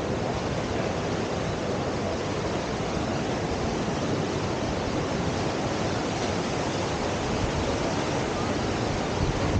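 Steady rush of whitewater pouring through a river surf wave.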